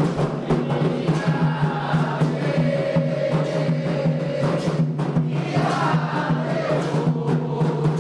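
Candomblé ritual music for Xangô: fast, dense hand-drumming on atabaques with a group of voices singing, the sung lines coming in about two seconds in and again past the midpoint.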